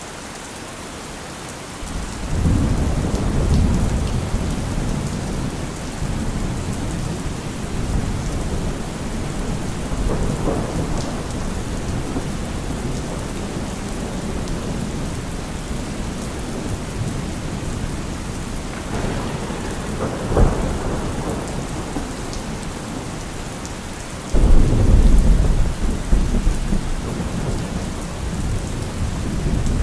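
Steady rain with rolling thunder. A low rumble swells about two seconds in and rolls on, a sharp crack comes about two-thirds of the way through, and a louder, deeper peal breaks in suddenly a few seconds later.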